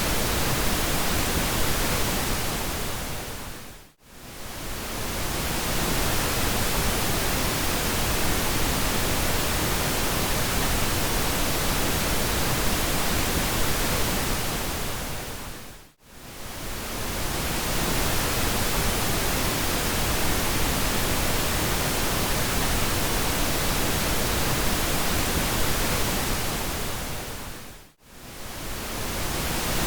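Steady pink noise, an even hiss across the whole range, that briefly fades almost to silence and swells back three times, about twelve seconds apart.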